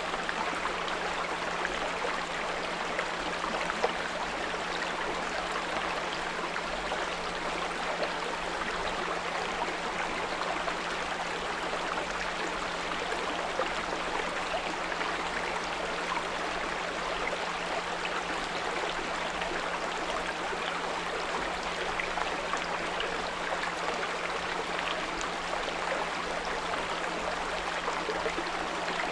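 Small brook running steadily, with a steady low 174 Hz pure tone mixed in under the water.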